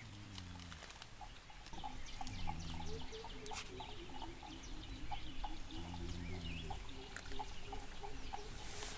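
Birds chirping in short, frequent calls, over a soft regular ticking of about two or three a second and a few low falling tones each lasting about a second.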